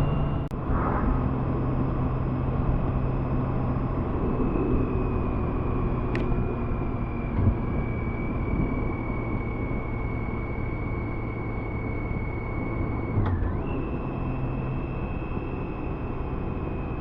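BMW K1600B motorcycle's six-cylinder engine running steadily under way, mixed with wind and road noise.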